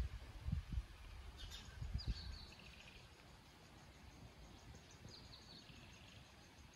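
Birds calling in the open air: two calls of quick notes falling in pitch, about a second in and about five seconds in, with a faint fast high ticking later on. A few low thuds in the first two seconds.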